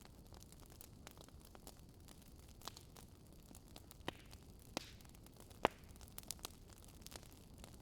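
Wood fire crackling in a fireplace: a steady low hiss with irregular sharp pops, the loudest a little before six seconds in.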